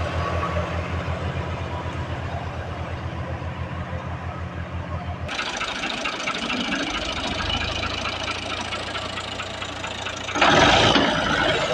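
Tractor diesel engine running with a steady pulsing beat. About halfway through the sound cuts abruptly to a lower, steadier engine note, and a loud burst of noise comes near the end.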